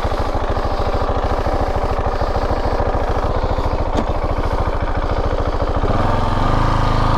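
KTM 690 Enduro R's single-cylinder engine idling in a steady, even thump, just restarted. The note picks up slightly about six seconds in.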